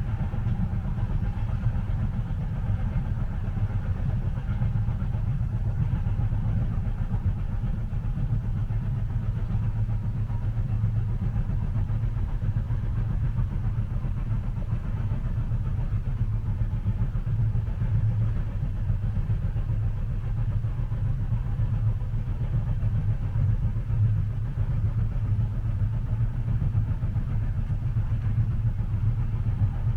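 Steady low rumble of a moving train heard from inside the passenger cabin, even and unchanging throughout.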